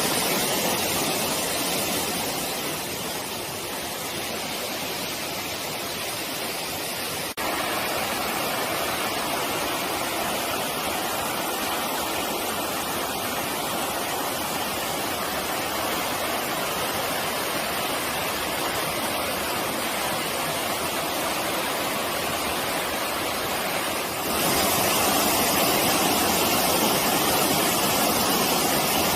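Mountain valley stream rushing over rocks, a steady wash of water noise. It jumps abruptly louder twice, about seven seconds in and about five seconds before the end.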